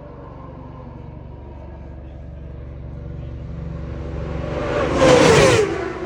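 Racing superbikes at full speed on a road circuit: an engine drone builds over a few seconds until one bike passes close by about five seconds in, its engine note dropping sharply as it goes past. The next bike is already closing in at the very end.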